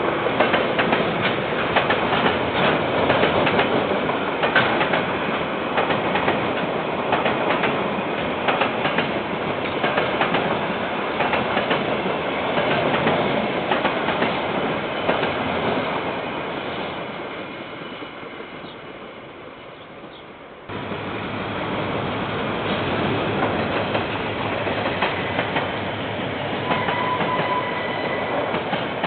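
KiwiRail train passing close by, picked up by a security camera's microphone, with a rumble and a clatter of wheels over the rail joints. The sound cuts in suddenly, fades away about two-thirds through, then cuts back in at full loudness.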